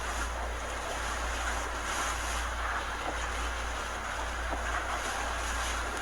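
Hurricane wind blowing as a steady rushing noise with slight surges, and wind buffeting the microphone as a constant low rumble.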